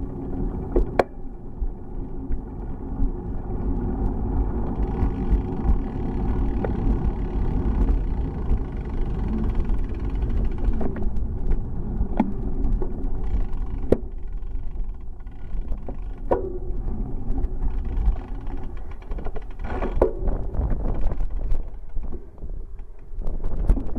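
Riding a bicycle: a steady rumble of tyres and wind on a bike-mounted microphone, with scattered sharp knocks and rattles from bumps.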